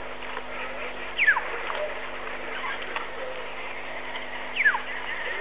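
A bird's clear whistled call, falling steeply in pitch, sounding twice about three and a half seconds apart over faint scattered chirps.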